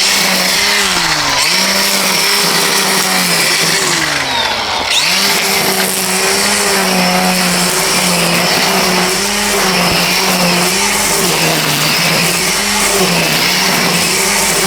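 DEWALT 20V Max brushless string trimmer running at speed, its motor whine sagging and picking back up over and over as the line cuts into grass. The pitch drops deeply twice, about a second in and again around four seconds in, then climbs back to full speed.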